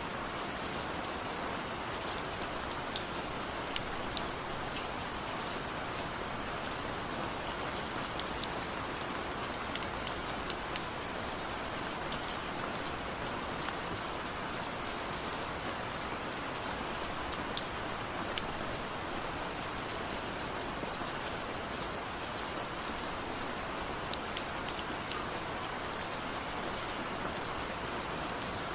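Steady rain falling, with a dense hiss and many scattered individual drops ticking on hard surfaces.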